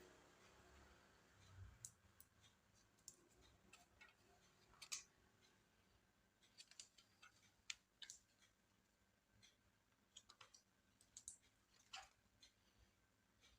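Faint, scattered small clicks and taps of hands handling small laptop parts, with quiet room tone between them.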